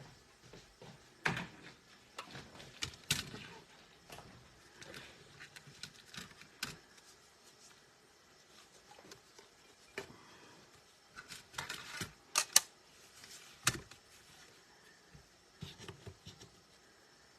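Paper-craft handling: irregular light taps, clicks and rustles of card stock and paper being moved and pressed by hand, with a few sharper taps.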